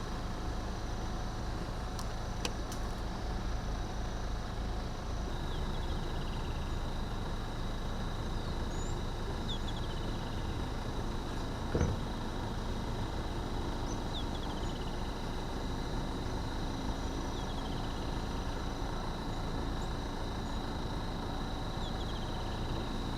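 Engine running as a steady low drone, with a thin high whine above it and short falling chirps every few seconds; one sharp click about halfway through.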